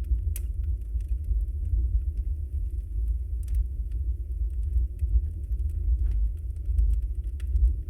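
Wood fire burning in a fireplace: a steady low rumble of flames with scattered small crackles and pops, a few sharper pops about half a second, three and a half and six seconds in.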